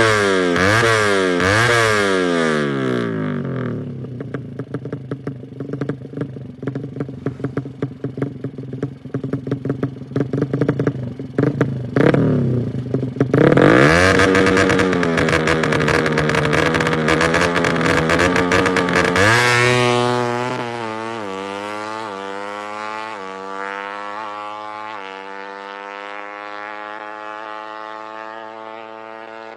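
A tuned Suzuki Satria FU motorcycle's single-cylinder DOHC engine, bored up to 155cc, being run hard. It revs up and down sharply at first, then runs rougher and lower with a lot of crackling and popping. Next it climbs to high revs and holds there. In the last third it pulls quieter through a series of gear changes, the pitch rising and dropping back each time.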